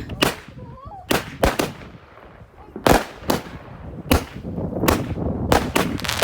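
Fireworks going off: a series of about nine sharp bangs at irregular intervals, roughly one every half second to second, the loudest about three seconds in.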